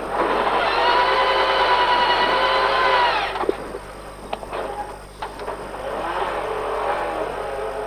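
Rally car engine revving hard and held at high revs for about three seconds, then dropping off sharply as the throttle is lifted. A few sharp knocks follow, then the engine pulls again more quietly as the car gets going after nearly rolling.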